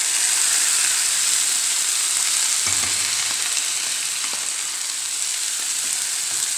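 Ground onion paste sizzling steadily in hot oil with fried ginger and garlic in a frying pan, with a few scrapes of a metal spoon against the bowl and pan near the middle.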